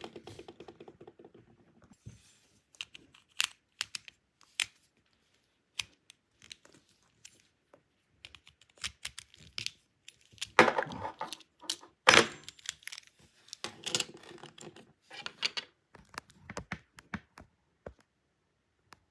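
Irregular small clicks and scrapes of a screwdriver working screws out of a plastic toy train's body, with plastic parts being handled, and a few longer scraping noises in the middle.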